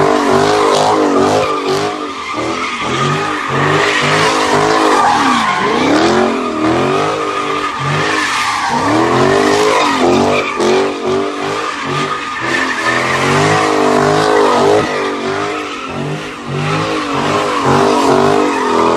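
Dodge Hellcat's supercharged V8 revving hard again and again, its pitch rising and falling, while the tires squeal and skid in a burnout.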